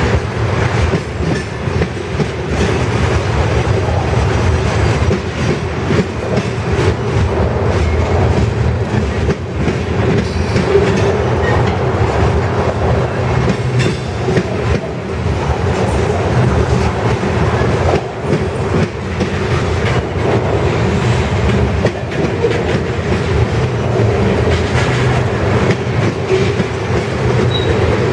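Freight train cars rolling past at steady speed, the wheels clacking continuously over the rail joints under a steady rumble.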